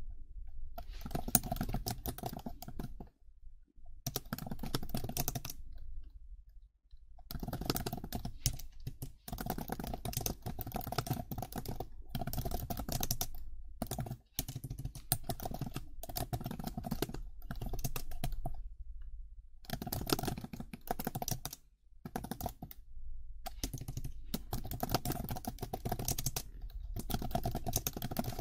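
Fast typing on a computer keyboard: rapid key clicks in runs of a few seconds, with brief pauses between them.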